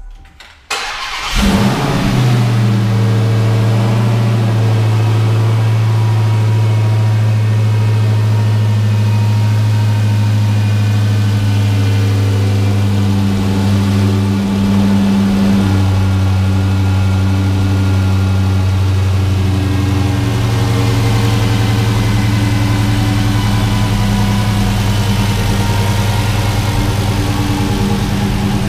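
Dodge Charger SRT Hellcat's supercharged 6.2-litre Hemi V8 started: it fires about a second in with a brief flare, then settles into a loud, steady idle. It is being run for about 30 seconds on freshly added oil to circulate it through the engine and oil cooler before the level is checked.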